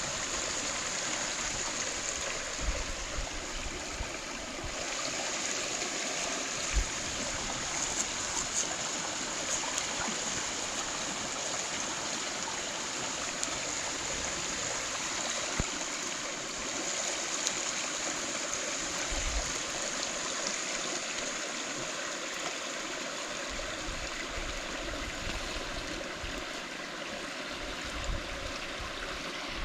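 Mountain stream running steadily, a constant rushing water noise, with a few short sharp clicks standing out now and then.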